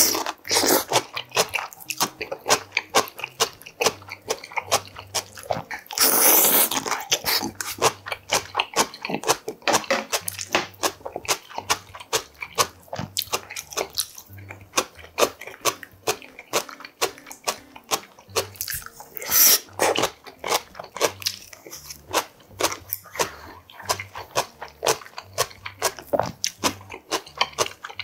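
Close-miked mukbang eating: a person chewing a Korean meal of yukgaejang and seasoned side dishes, with a constant run of wet mouth clicks and crunches. There is a louder noisy burst about six seconds in, lasting about a second, and a brief one near twenty seconds.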